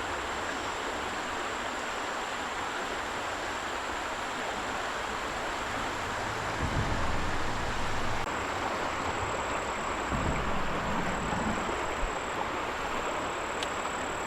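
Creek water running in a steady rush, with a thin, steady high-pitched insect drone above it and a few soft low thumps.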